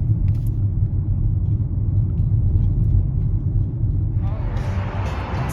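Steady low rumble of a car, as heard inside the cabin. Music fades in about four seconds in.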